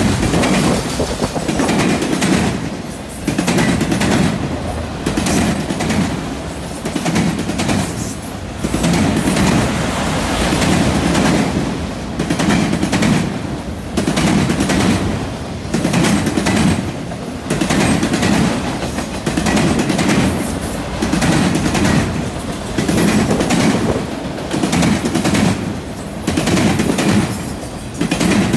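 Freight train of autorack cars rolling past, the steel wheels clattering and banging over the track in a steady rhythm of loud clatters about a second apart.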